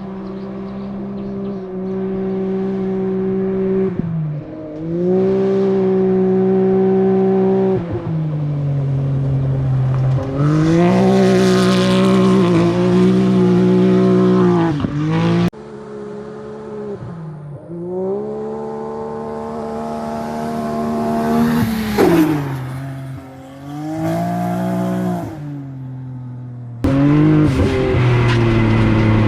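Can-Am Maverick X3 side-by-side's three-cylinder engine revving hard and easing off again and again as it is driven, its pitch rising and falling, in several cut-together passes.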